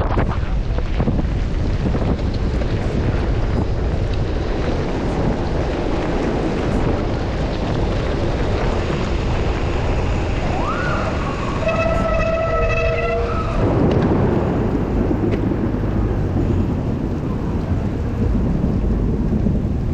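Steady rush of wind on the microphone and wet-road and rain noise while riding a bicycle through a heavy thunderstorm downpour. Around the middle, a pitched tone sounds for about three seconds, rising quickly at the start and then holding steady.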